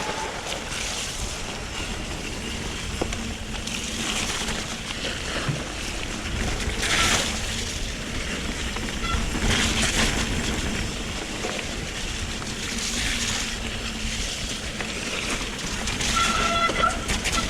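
Electric mountain bike riding a soaking wet trail: tyres rolling and splashing through mud and puddles, with surges of spray and wind rushing over the microphone.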